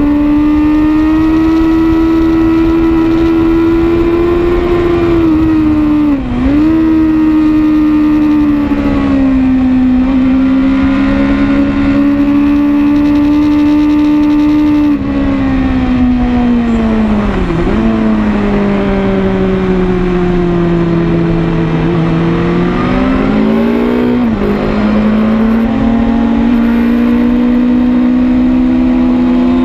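BMW S1000RR's inline-four engine running hard at track speed, heard from a bike-mounted camera over wind rush. Its pitch holds high, then dips sharply and briefly with gear changes about 6, 17 and 24 seconds in; it falls away under braking from about 15 seconds and climbs again under throttle after about 22 seconds.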